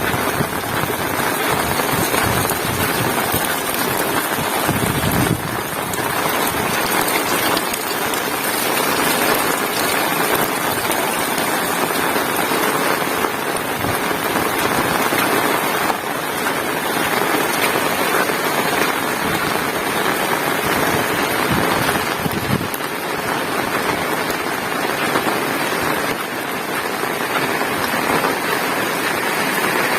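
Heavy rain pouring steadily, a dense even hiss of drops.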